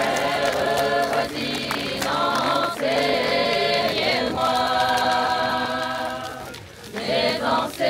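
A group of voices singing a song together in long held notes, with a brief break between phrases near the end.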